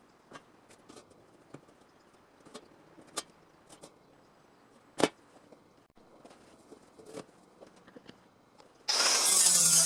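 Scattered faint clicks and taps with one sharp, louder click about halfway through. Background music starts loudly near the end.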